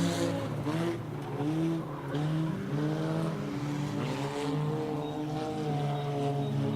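Junkyard race cars' engines running hard around an oval track, their pitch rising and falling as the cars accelerate and lift through the turns.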